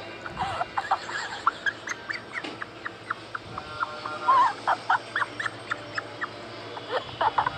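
Many short, high squeaks and yips in quick succession from a small animal, some curling up and down in pitch.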